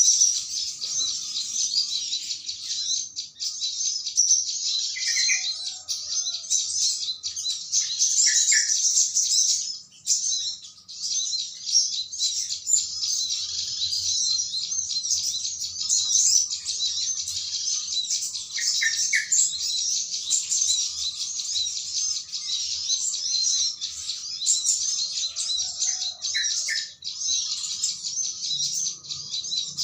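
Dense, unbroken high twittering of a flock of small birds, with a short lower double note every few seconds, from a lure call that mixes in yellow-vented bulbuls (trucukan) calling to their flock mates.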